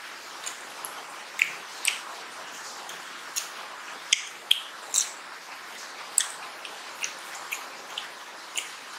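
Close-miked chewing of raw cucumber: about a dozen crisp, wet crunches and mouth clicks at uneven intervals, the loudest about halfway through.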